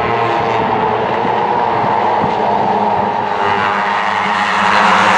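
Racing engines running hard at speed, a steady engine note that shifts about three and a half seconds in.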